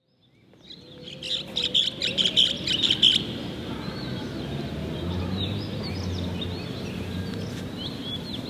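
Birds chirping: a fast run of repeated chirps about a second in, then scattered short calls over a steady low background noise. The sound fades in at the start.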